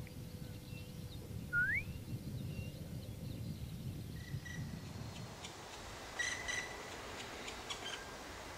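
Distant wallcreeper singing: a thin whistled note sliding upward, about a second and a half in. From about six seconds another bird gives harsher, quickly repeated call notes.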